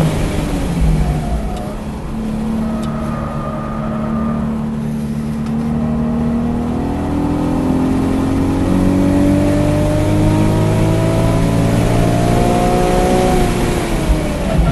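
Nismo 370Z's 3.7-litre V6 heard from inside the car on track. The engine note falls as the car slows for a corner, then climbs steadily for several seconds under hard acceleration, and drops again near the end as the driver lifts for the next corner.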